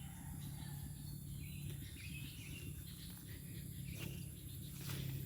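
Faint outdoor ambience: scattered bird chirps and a steady high insect drone over a low hum, with a couple of soft clicks near the end.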